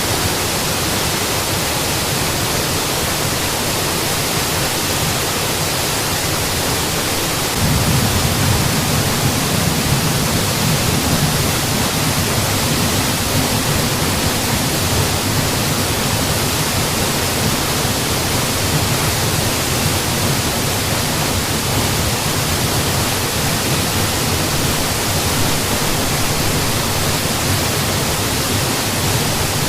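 Mountain waterfall: steady, full rushing of falling water. About a quarter of the way in, its low rumble steps up louder and stays that way.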